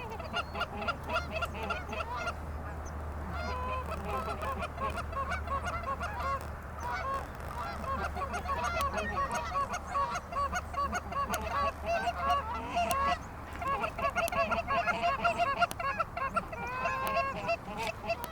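A flock of geese honking, many short calls overlapping without a break, busiest in the middle and again near the end.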